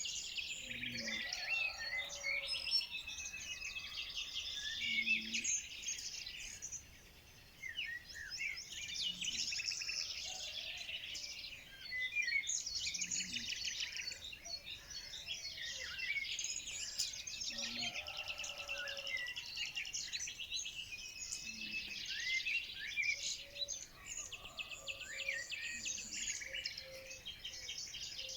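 A dense chorus of many small songbirds chirping and trilling at once, with quick overlapping calls and a brief lull about seven seconds in.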